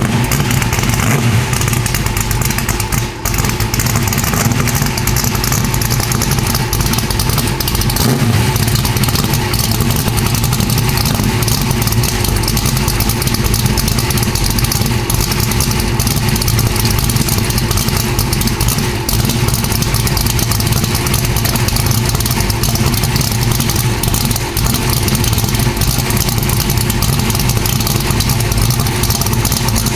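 Vehicle exhaust fitted with new 3-inch Goerlich X107 mufflers on a full exhaust system, the engine running at a steady, even pitch, with a brief dip about three seconds in.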